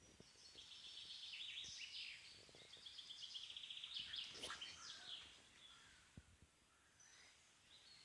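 Faint birdsong from songbirds: high chirps and trills, with a fast run of repeated notes in the middle, thinning out over the last couple of seconds.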